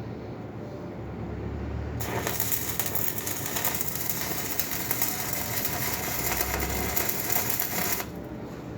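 Electric arc welding on a steel foundation bolt: the arc's steady crackling sizzle starts abruptly about two seconds in and cuts off about six seconds later.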